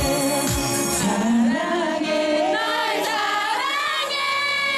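Live pop song: a male singer's wordless vocal run that bends up and down and then settles into a long held note, over the backing track. The drum beat drops out about a second in.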